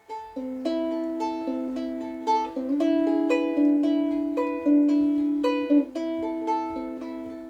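Solo ukulele playing an introduction in picked single notes that ring on as arpeggios, starting about a quarter second in.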